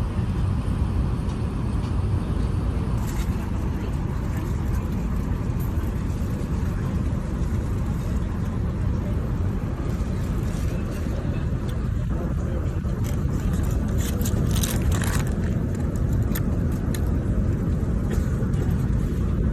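Steady roar of an Airbus A380 in flight, heard from inside the passenger cabin: an even, low rumble of air and engine noise, with a few faint clicks partway through.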